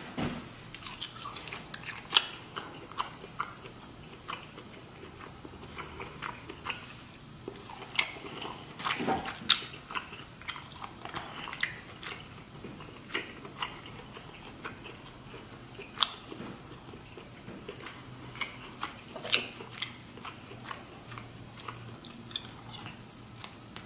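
Close-miked chewing and lip smacking of lobster meat, with irregular sharp wet clicks and a few louder smacks scattered throughout.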